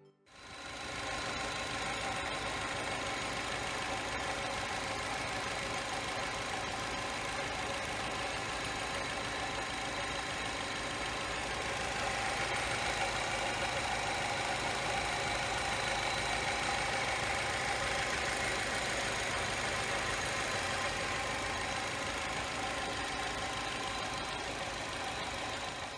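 Hyundai Accent engine idling steadily, a little louder about halfway through.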